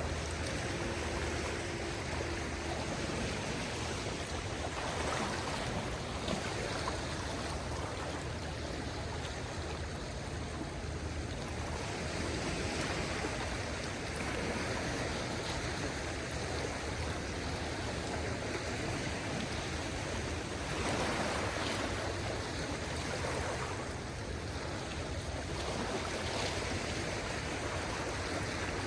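Gentle waves of a calm sea washing onto the shore: a steady rush of water that swells a little every few seconds.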